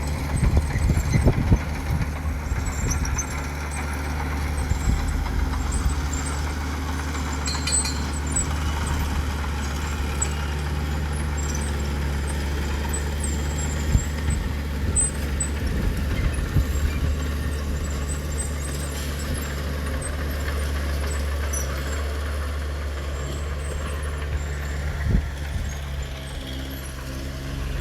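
Heavy diesel engine of earthmoving machinery running steadily at a constant low pitch, with a few short knocks.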